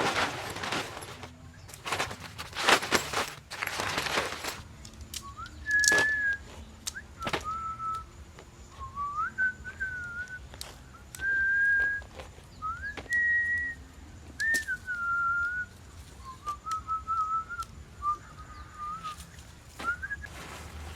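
Someone whistling a slow tune: a string of about ten held notes, each sliding up into its pitch, with a few clicks of handling between them. In the first four seconds there is loud rustling and handling noise, before the whistling starts.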